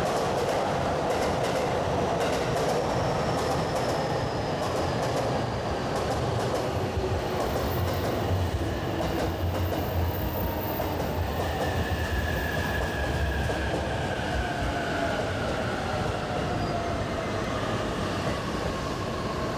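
Green-and-orange striped JR electric commuter train running past alongside the platform, its wheels clicking over rail joints. In the second half a motor whine slides down in pitch as the train draws away.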